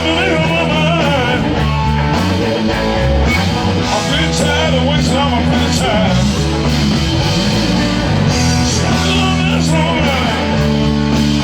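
Live rock band playing loud, with a lead line of bending, wavering notes over steady bass and drum hits.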